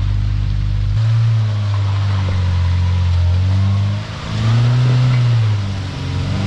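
Off-road vehicle's engine running under load while crawling an obstacle. It revs up about a second in, eases off briefly near four seconds, then revs up and back down again.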